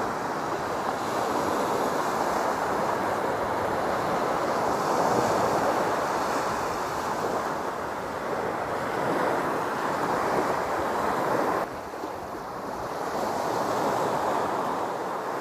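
Ocean surf washing onto a beach, swelling and easing wave after wave, with wind on the microphone. The sound drops suddenly about three-quarters of the way through, then builds again.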